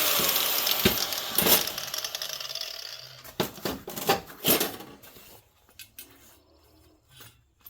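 A power cutting tool spinning down, its whir fading away over the first few seconds. Several sharp metallic clinks and clanks follow as pieces of steel angle iron are handled.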